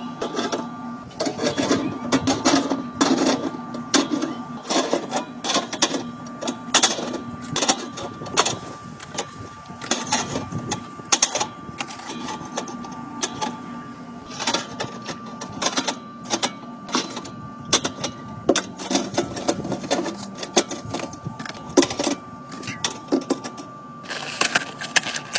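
Cans and bottles of drink clinking and knocking as they are set into a beverage fridge, many irregular sharp clicks one after another. A steady faint hum and tone run underneath.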